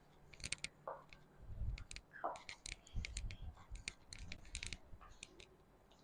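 Faint scattered sharp clicks and a few soft low thumps, with two brief short tones, one of them falling, about one and two seconds in.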